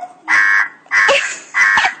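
Car alarm siren switching from a rising wail to a pulsed tone right at the start, giving three evenly spaced blasts about half a second long each.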